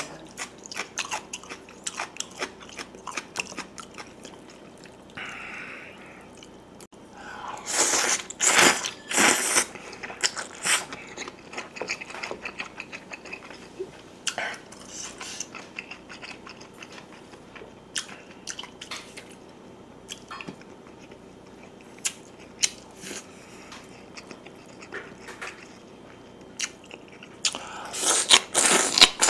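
Close-up eating sounds: wet chewing and mouth clicks, with louder bursts of noisy biting and crunching about eight seconds in and again near the end, as a mouthful of crisp young radish kimchi stems is bitten.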